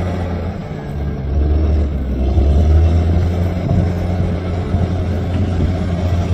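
Bulldozer's diesel engine working, easing off briefly about half a second in and then building back up to a steady, loud running note.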